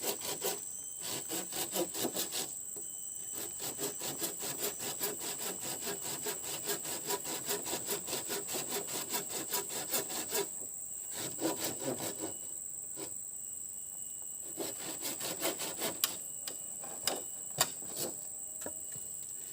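Hand sawing through wood in bouts of quick back-and-forth strokes, pausing a few times. Insects keep up a steady high drone behind it.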